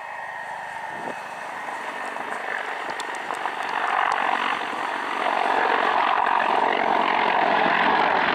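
Mil Mi-28NM attack helicopter approaching, its rotor and turbine noise growing steadily louder.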